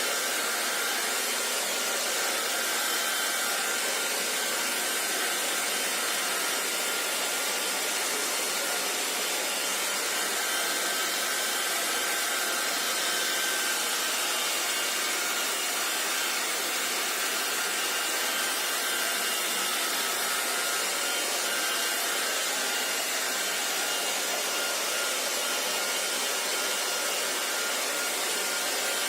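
Handheld hair dryer running steadily, a constant whoosh of blown air with a faint motor whine on top.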